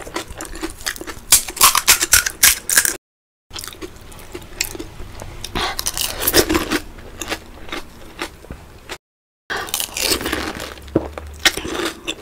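Close-up chewing of pani puri: crisp puri shells crunching in quick sharp crackles, with wet squishing from the spiced water filling. The sound drops out to total silence twice, briefly.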